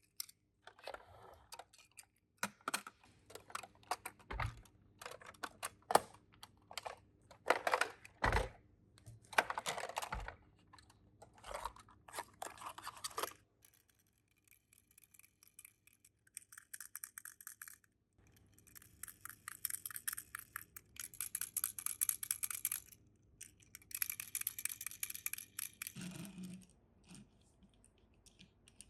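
Hands handling small toy minicars and their plastic packaging: irregular clicks and knocks for the first half. After that come several seconds of rapid fine clicking and scraping, in two long stretches.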